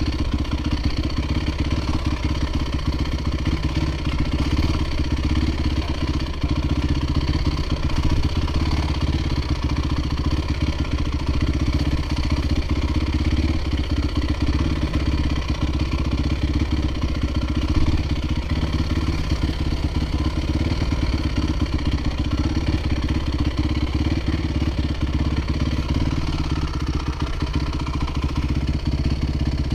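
Dirt bike engine running at a fairly steady speed.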